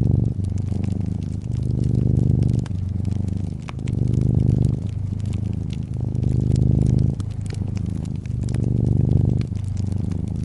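Brown tabby cat purring close up: a low, loud rumble that swells and eases about once a second with each breath in and out. Light fireplace crackles and pops scattered over it.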